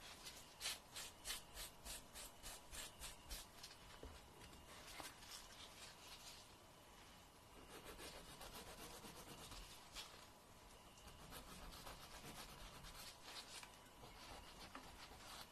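Fingernails being filed by hand with a nail file, faint scratchy back-and-forth strokes. The strokes come quickly, about three a second, over the first few seconds, then turn into softer, steadier rubbing.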